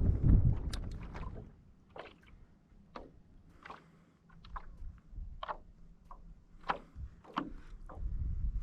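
Wind buffeting the microphone dies away over the first second or so. Then comes a series of short, irregular splashes and knocks of water at a stand-up paddleboard.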